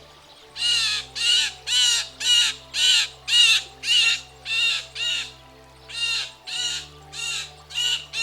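Blue jay giving a rapid series of about a dozen harsh, rasping 'jay' calls, about two a second, with a short pause just past the middle.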